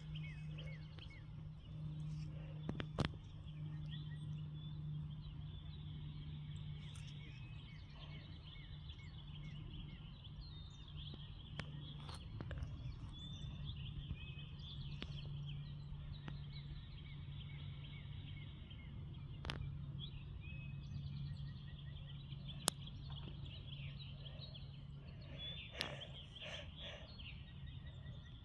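Small birds chirping repeatedly over a steady low hum, with a few sharp clicks.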